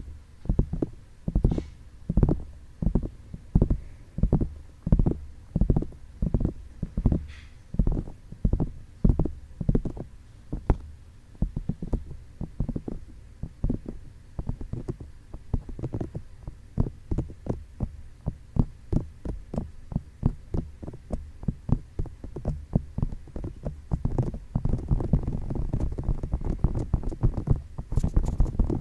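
Fingertips tapping on the microphone's ears in ASMR ear tapping, giving muffled low thumps. The taps come about twice a second at first and quicker and closer together from about ten seconds in. Near the end a muffled rubbing of the ears runs under the taps.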